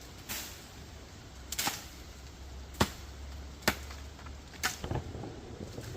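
Blade chopping into a small tree trunk: six sharp strikes, about one a second.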